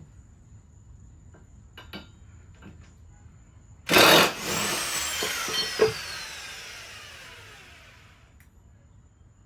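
A few light metal clicks, then a handheld power tool runs in a short loud burst about four seconds in and its motor winds down with a falling whine that fades over several seconds, broken by one sharp click.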